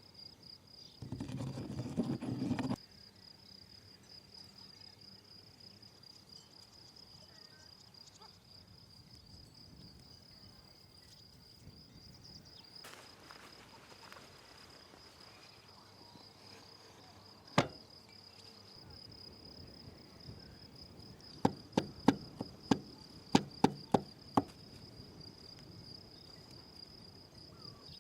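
Insects droning on one steady high note. A short burst of noise comes about a second in, and a run of sharp knocks comes near the end.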